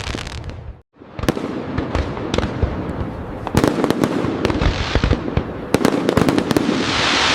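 Fireworks display: a dense run of sharp bangs and crackle, broken by a sudden moment of silence just before a second in.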